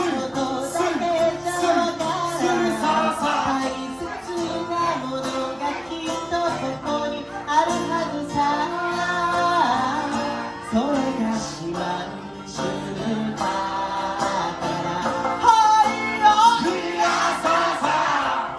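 Live Okinawan folk song (shimauta): a voice singing with plucked sanshin accompaniment.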